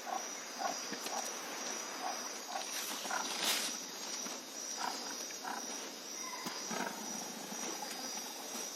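Insects buzzing steadily on a high note, with short low chirps or calls repeated every half second or so and a brief hiss about three and a half seconds in.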